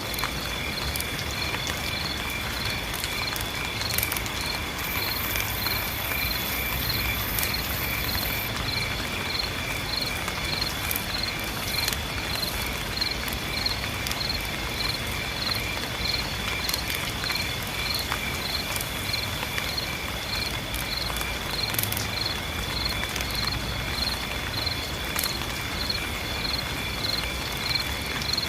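Steady rain hiss under a chorus of insects: a constant high buzz and a chirp repeating about twice a second.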